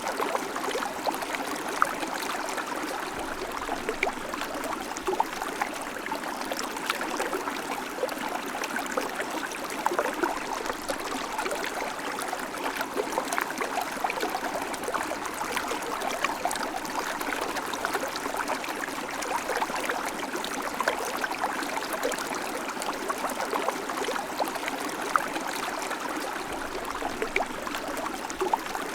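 River water flowing steadily over stones, a continuous rushing babble with small splashes and gurgles throughout.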